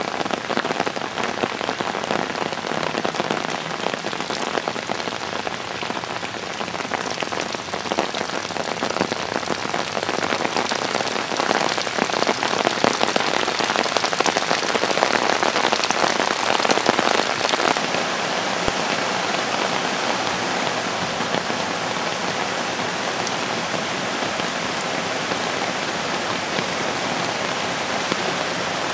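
Flood-swollen Roark Creek rushing as a steady, loud roar of water, swelling a little in the middle.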